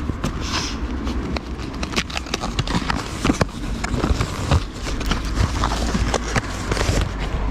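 Objects being handled and packed away: irregular knocks, clicks and rustling as things are put inside a container, over a steady low rumble.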